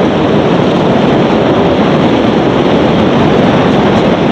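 Loud, steady rushing of wind over the microphone while riding in a moving vehicle.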